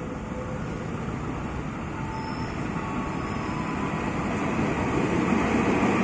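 A train approaching, its rumble growing steadily louder.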